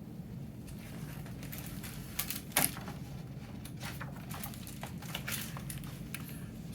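Paper rustling and crinkling from a picture book's pages being handled and turned, with scattered light clicks and one sharper tap about two and a half seconds in, over a steady low room hum.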